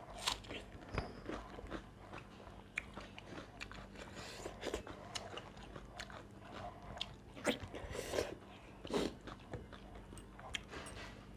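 Close-up mukbang eating sounds: chewing and biting, with many short, crisp clicks at an irregular pace and a few louder bites.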